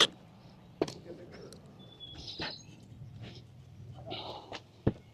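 Scattered handling noises: a sharp click or knock about a second in and another near the end, with faint rustling and a brief thin squeak in between.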